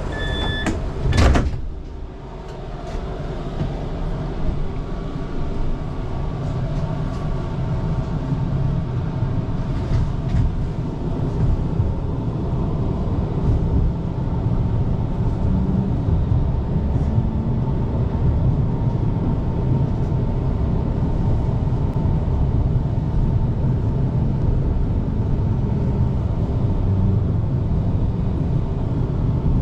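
Heavy street traffic running with a steady low rumble. Warning beeps from a vehicle stop just after the start, and a loud bang comes about a second in.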